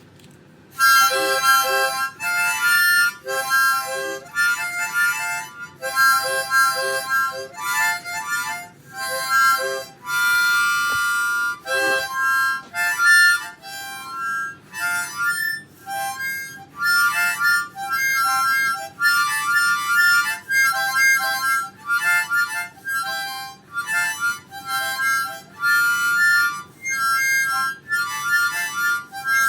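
Solo instrumental music: a reedy wind instrument plays short phrases of several notes at once, with one longer held chord about ten seconds in.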